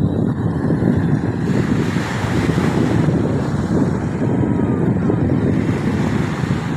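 Strong wind buffeting the microphone over rough sea waves: a loud, dense rush of noise, heaviest in the low end, that surges and eases without a break.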